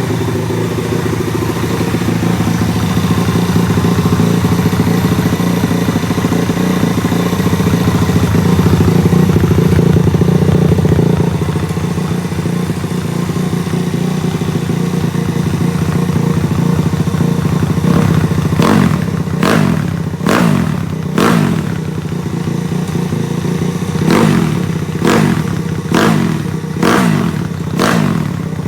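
Stomp 140 pit bike's single-cylinder four-stroke engine on its first run after a full rebuild: it runs steadily at a fast idle, then from about two-thirds of the way in is blipped repeatedly, about one rev a second, each rising and dropping back.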